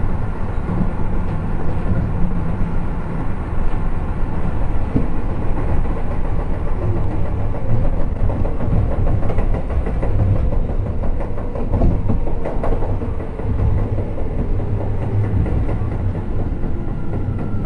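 Running noise heard inside a Keio 7000 series electric commuter train car at speed: a steady low rumble of wheels on rail, with a few faint knocks from the track.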